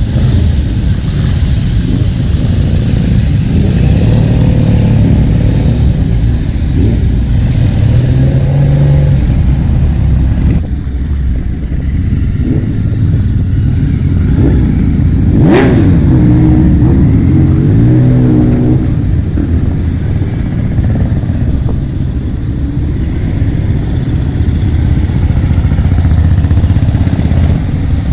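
Motorcycle engine running under way, its pitch rising and falling with speed, over a steady rush of wind and road noise. The sound changes abruptly about a third of the way in, and there is one sharp knock about halfway through.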